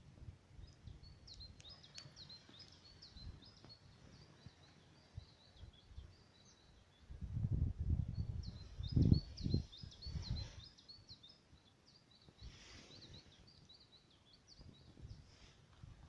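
Small songbird singing: quick series of short high chirps, repeated with brief pauses. About seven seconds in, a low rumble lasting a few seconds is the loudest sound.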